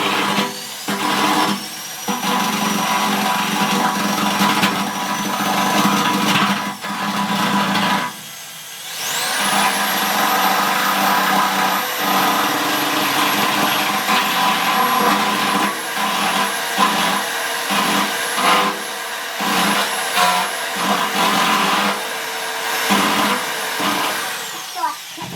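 Electric drill running under load, drilling a headlight mounting hole. It runs twice with a short pause about eight seconds in, and its whine rises each time the motor spins up.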